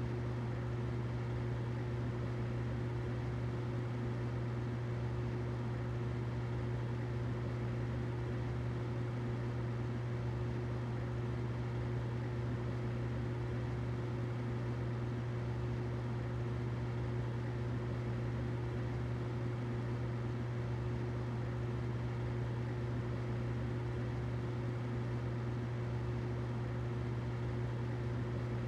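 Humidifier running steadily: a constant low hum with an even hiss above it, unchanging throughout.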